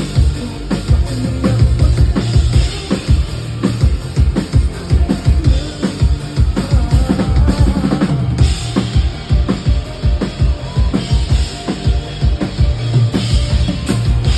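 Live band music with a loud drum kit, its kick drum and snare hits driving a steady beat over heavy bass.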